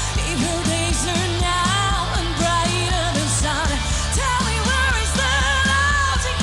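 Pop song with a singer holding a wavering melody over steady bass and drums.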